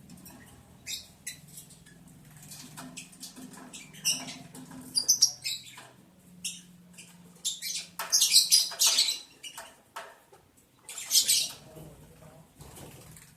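Lovebirds giving short, scratchy high-pitched chirps and chatter in scattered clusters, busiest about eight to nine seconds in.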